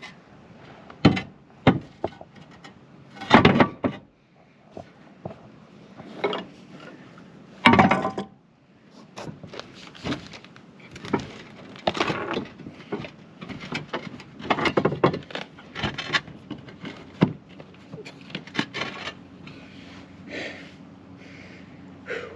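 Repeated knocks, clatters and scrapes of tools and roofing materials being handled and gathered up, some loud and sharp, others light, at irregular intervals.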